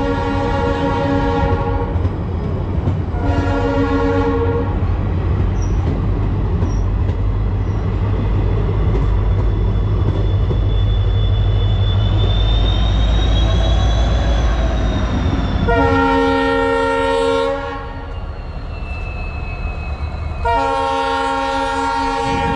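A railway locomotive sounding its horn in blasts: a long one at the start and a shorter one about three seconds in. Then comes a loud low rumble of wheels on the track that builds to its peak as the locomotive goes by, and two more horn blasts near the end.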